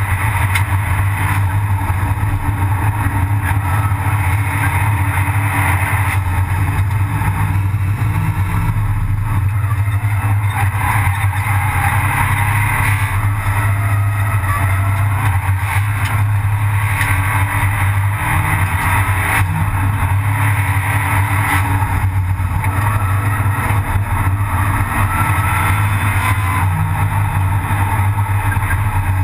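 Abarth 500 Assetto Corse race car's turbocharged 1.4-litre four-cylinder engine running hard at racing speed, heard inside the stripped, roll-caged cabin, along with road and wind noise. Its note shifts several times as the driver works the gears through the corners.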